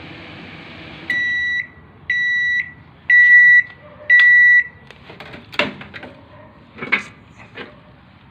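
Samsung microwave oven running with a steady hum, which stops about a second in, followed by four loud, even beeps about one a second: the end-of-cycle signal that the heating run is done. Two sharp clacks follow a few seconds later.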